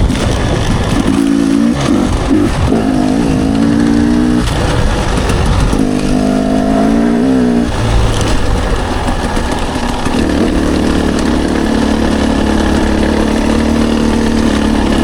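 Dirt bike engine running, its pitch rising and falling several times as the throttle is worked, then holding a steadier note for the last few seconds.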